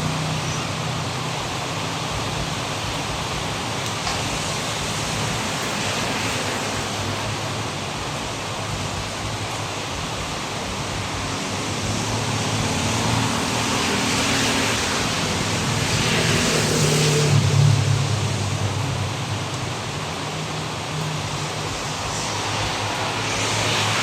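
Heavy rain pouring steadily, a dense even hiss, with a low hum underneath that swells briefly about 17 seconds in.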